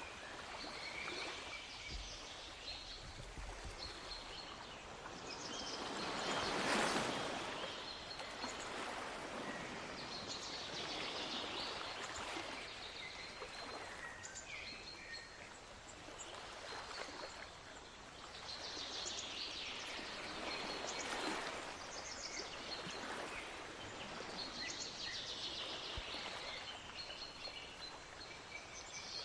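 Sea waves washing in slow swells, one surging louder about a quarter of the way through, with small birds chirping and singing over them in repeated bursts.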